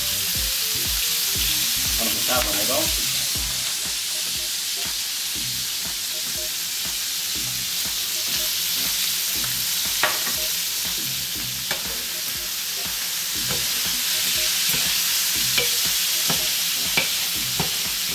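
Rabbit pieces and green beans sizzling in hot oil in a wide steel paella pan, a steady frying hiss. A metal spatula stirring them clinks against the pan now and then. This is the browning stage of a paella valenciana before the sofrito.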